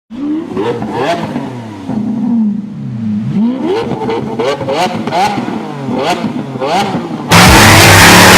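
Engines revving again and again, each blip of the throttle sending the pitch climbing and falling back. About seven seconds in, loud music cuts in abruptly.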